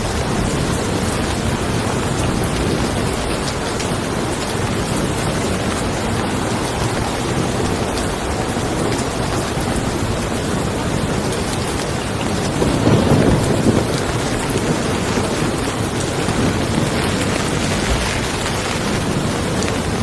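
Steady rain falling, with a low rumble of thunder swelling briefly a little past the middle.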